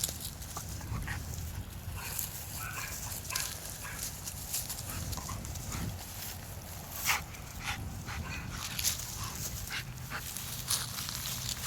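A dog's small sounds close by: short clicks and rustles over a steady low rumble.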